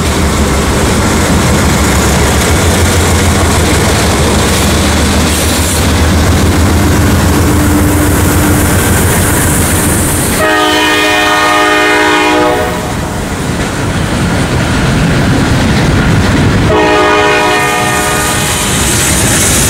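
CSX freight train passing close by: the diesel locomotives run past with a steady low engine drone, then the freight cars roll by over the rails. Over this, the train's air horn sounds two long blasts, about ten seconds in and again about seventeen seconds in.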